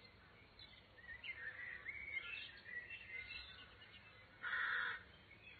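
Birds chirping outdoors in short rising and falling notes, with one louder, short noisy call or burst about four and a half seconds in.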